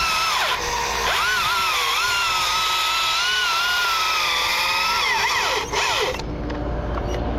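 Husqvarna T542i XP battery chainsaw's electric motor whining at full throttle while cutting. Its pitch dips under load about a second in and recovers without stalling, then the whine winds down about six seconds in.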